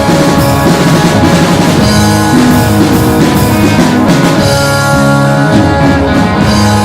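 Live rock band playing: two guitars, bass guitar and drum kit.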